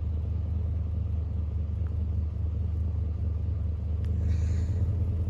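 Pickup truck engine idling in park, a steady low rumble, with a faint click about four seconds in.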